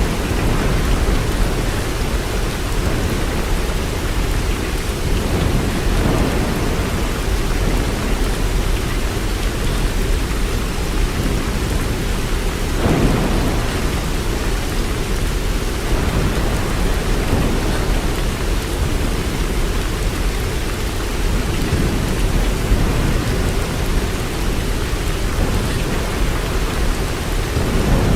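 Steady heavy rain, a dense even hiss with a deep low rumble underneath and a brief swell about halfway through.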